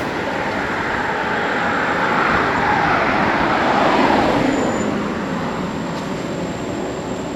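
A vehicle passing by: a rush of noise that builds, peaks about four seconds in, then fades, its pitch dropping as it goes past.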